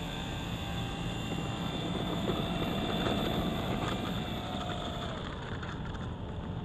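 Electric motor of an E-flite Cherokee RC plane whining steadily at low throttle, its pitch falling away about five seconds in as the throttle is cut.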